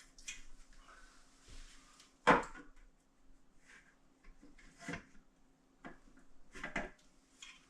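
Three sharp knocks and clunks from a new veranda door and frame being handled and set in its opening, the loudest about two seconds in.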